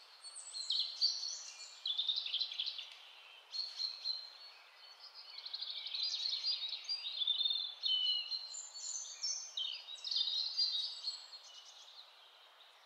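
Birds singing: quick high chirps and trills, phrase after phrase, over a faint steady hiss, fading out near the end.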